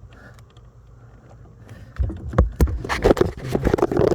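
Scraping, rubbing and clicking as hands work at a car's sunroof drain hose and the plastic trim around it, starting about two seconds in over a faint low hum.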